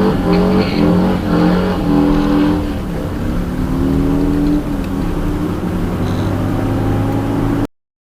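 Semi truck's diesel engine pulling under acceleration, its pitch climbing and then holding at steady levels that step from one to the next. It drops in level about four and a half seconds in, and the sound cuts off abruptly near the end.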